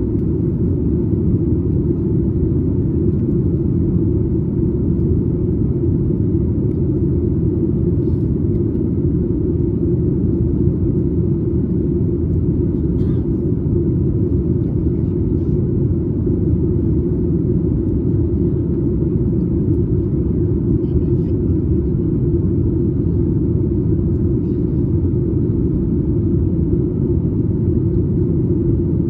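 Steady low cabin rumble of a Boeing 737 MAX 8 airliner in flight, from its engines and the airflow past the fuselage, heard from a window seat just behind the wing.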